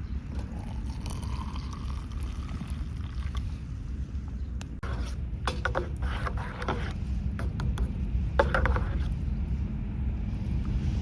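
Wind rumbling on the microphone, with a few light clicks and knocks about halfway through.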